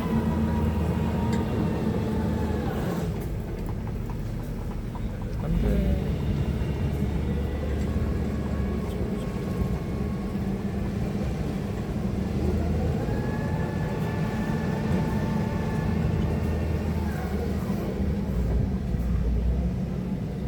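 Electric stand-up forklift working: a steady low hum with a motor whine that rises, holds for a few seconds and drops away, more than once.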